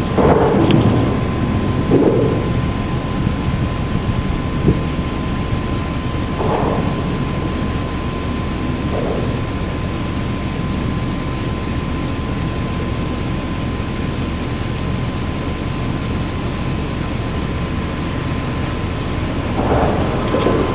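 Steady noise of a thunderstorm, rain and low rumbling, with a few louder swells in the first couple of seconds. A faint steady high whine runs under it.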